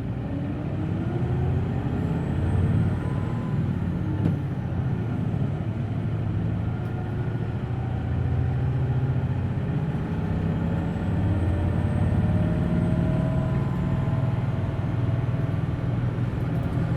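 Hino Blue Ribbon City Hybrid bus's six-cylinder diesel engine accelerating away from a stop, heard from inside the cabin: the engine note climbs for a few seconds, drops back at a gear change, then climbs steadily again.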